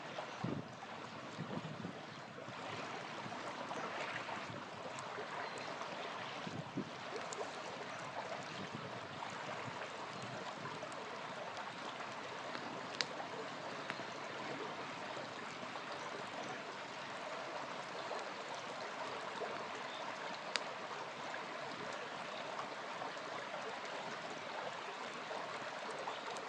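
Small river flowing steadily, with a few sharp pops from a crackling campfire, the clearest about halfway through and again some seconds later.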